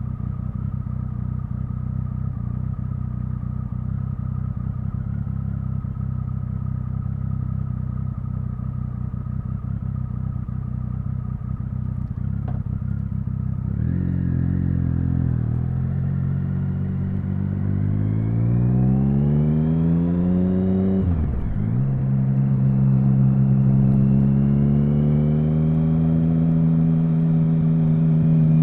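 Triumph Speed Triple 1050's inline three-cylinder engine running at steady low revs for about half the time, then pulling away: the revs climb, drop sharply at a gear change, then climb again more gradually.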